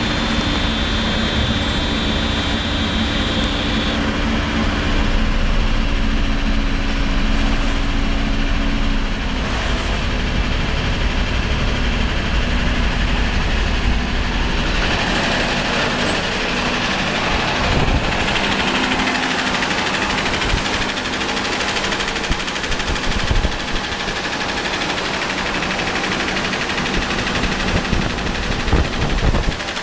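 Mercedes-Benz M116.965 4.2-litre V8 engine running steadily. About halfway through its sound shifts to more hiss and less low rumble.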